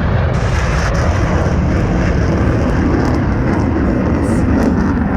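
F-15 Eagle jet noise from its two Pratt & Whitney F100 turbofan engines: a loud, steady, low rumble.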